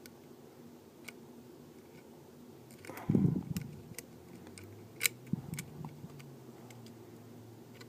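Small tools clicking and tapping on the parts of an iPhone 4S during disassembly, a few sharp clicks with a louder knock and rustle about three seconds in.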